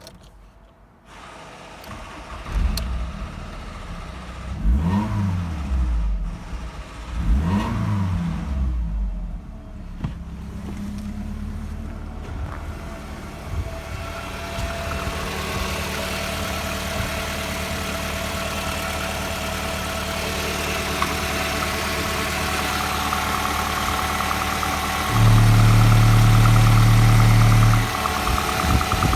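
Ford Galaxy 2.3i (E5SA) four-cylinder petrol engine starting about a second in, revved twice and then idling steadily. Near the end a louder steady tone lasts for about three seconds.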